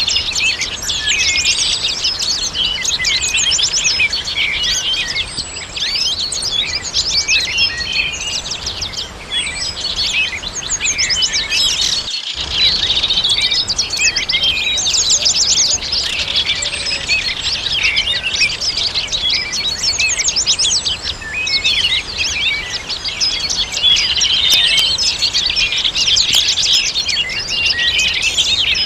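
Many small songbirds chirping and singing at once in a dense, overlapping chorus of quick high chirps and trills, with a faint steady noise underneath. The sound cuts out for a split second about twelve seconds in.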